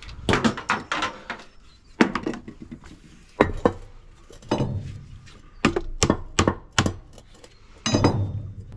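Hard parts from a dismantled washing machine being handled and dropped onto a pile: a string of sharp, separate knocks and clatters, about a dozen over the stretch.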